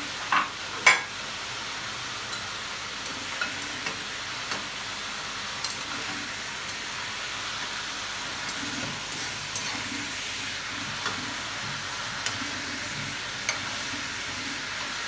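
Chicken pieces sizzling steadily in hot ghee in a wok while they are lifted out with a metal slotted spoon, with scattered small pops. Two sharp clicks come about half a second and a second in, the second the loudest.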